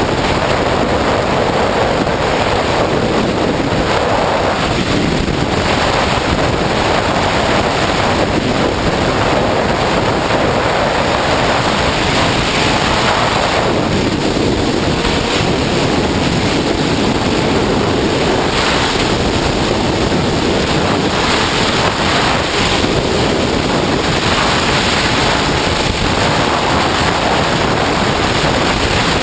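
Wind rushing over the microphone of a sportbike riding at freeway speed: a loud, steady rush of air with no clear engine note coming through.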